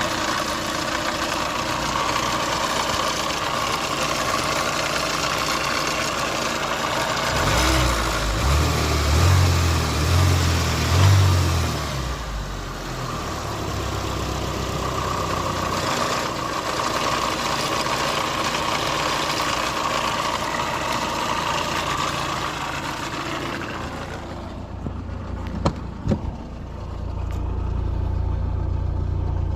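Nissan Primera P11's engine running with a noise the owner cannot place, though the oil level is normal, the oil pump works and the spark plugs are new. A few heavy low pulses come about a third of the way in, and a couple of sharp clicks sound near the end.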